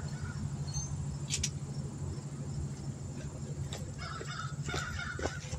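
Crows cawing several times in the second half, over a steady low hum, with a few sharp metallic clicks scattered through.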